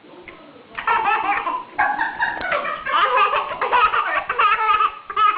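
A baby laughing in repeated belly-laugh bursts, starting about a second in.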